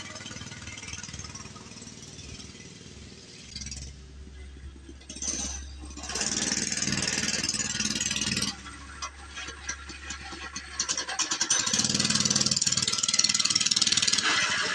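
Mini bike's small engine running as it is ridden, with two louder spells of throttle: one around the middle and one near the end.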